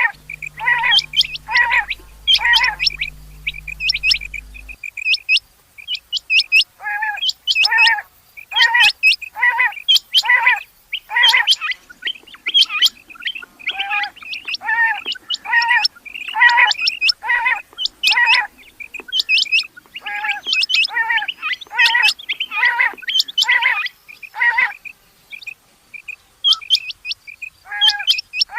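Rain quail calling: a loud series of short, sharp repeated notes, about two a second, broken by brief pauses about five seconds in and near the end.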